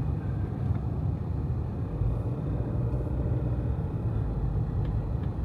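A car driving along a road: steady low rumble of engine and tyre noise.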